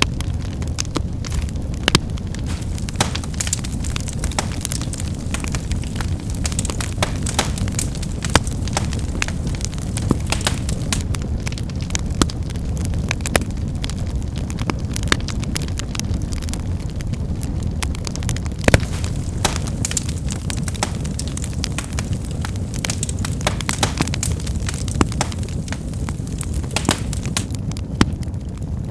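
Wood fire burning with a steady low rumble, crackling and snapping in frequent sharp pops, a few of them louder.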